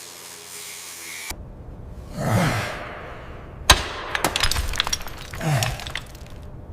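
A person grunting with effort, with a sharp crack about halfway through followed by a quick run of cracking clicks, as a stuck, corroded part is forced.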